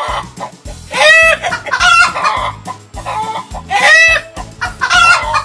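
Domestic hen clucking: four loud calls in two pairs, about a second apart, over light background music.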